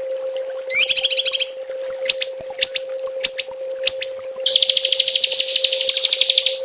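Small songbird giving rapid, sharp 'tembakan' call bursts of the kind used as a masteran recording for training songbirds. It starts with a quick trill of rising notes, then four single sharp notes about half a second apart, then a long fast buzzing trill of about two seconds.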